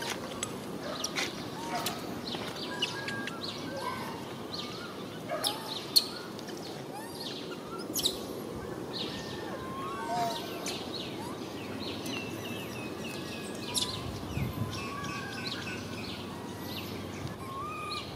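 Birds chirping repeatedly over steady outdoor background noise, with short high calls scattered throughout and a few sharp clicks, the loudest about six seconds in.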